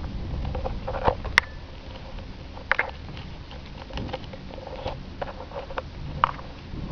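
A cat pawing and nosing at the camera close to its microphone: irregular light taps, scrapes and patters, with one sharp click about a second and a half in.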